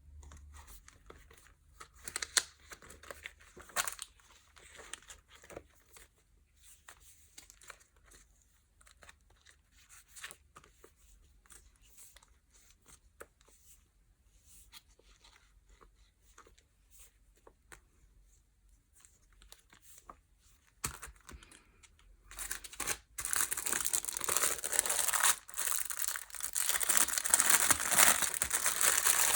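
Packaging being unwrapped by hand: soft scattered rustles and small taps, then a long stretch of loud crinkling and tearing of the wrapping over the last third.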